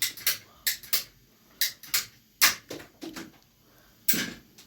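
Irregular sharp clicks and knocks of small hard objects being handled, about ten in under five seconds, with a longer rasping scrape about four seconds in.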